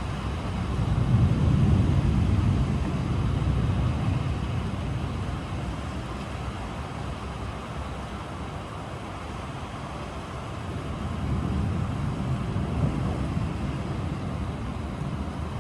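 Steady rain with thunder rumbling low, swelling up about a second in and again later, each roll fading slowly.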